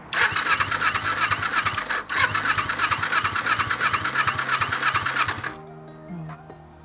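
Kawasaki Ninja 250's parallel-twin engine turning over on its electric starter, without catching, in a first start attempt after the rebuild. Cranking breaks off for a moment about two seconds in, then stops after about five and a half seconds.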